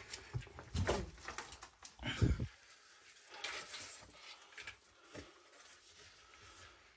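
Scuffing, scraping and knocking of someone clambering down a shaft on a rope and scaffold pole, with two heavier thumps about one and two seconds in, then quieter rustling and scraping, in a small echoing space.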